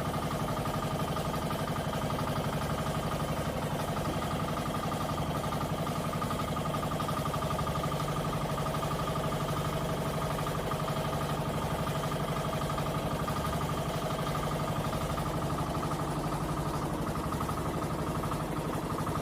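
Twin engines of a bangka fishing boat running steadily at an even speed, with no change in pitch or level.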